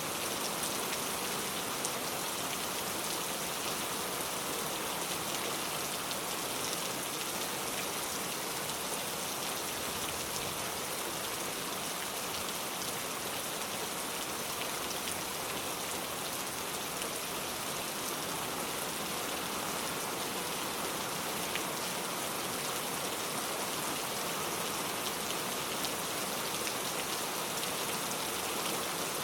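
Steady rain falling on surfaces, a dense even hiss with fine individual drop patter throughout.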